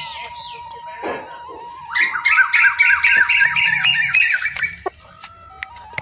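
Birds calling: scattered chirps, then about two seconds in a loud run of rapid, harsh squawking calls that lasts nearly three seconds and breaks off. A thin steady tone sits underneath.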